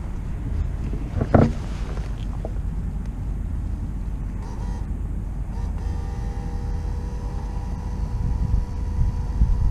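Motorcycle riding, the Suzuki Intruder 1400's V-twin running steadily under a low rumble of wind on the microphone. There is a brief sharp sound about a second and a half in, and a steady whine joins about six seconds in.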